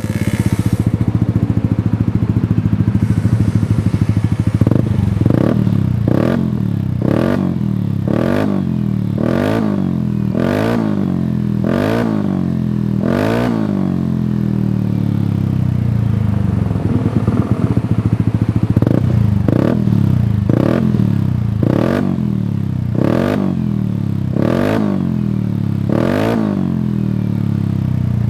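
Yamaha Aerox scooter's single-cylinder engine through a Shijiro MT GP Power racing exhaust, idling and revved in about sixteen quick throttle blips, each rising and falling back to idle, with a stretch of steady idle midway through.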